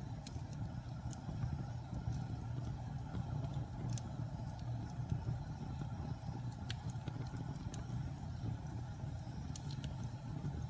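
Wood campfire burning logs, crackling with scattered sharp pops over a steady low rumble.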